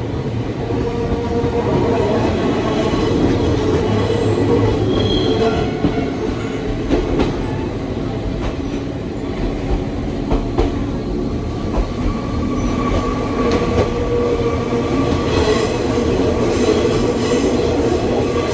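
Nankai 2200-series electric train running, heard from inside the carriage: a steady rumble of wheels on rail with a few clicks from the track. In the second half, thin high tones of wheel squeal come in as the train takes curves on the mountain line.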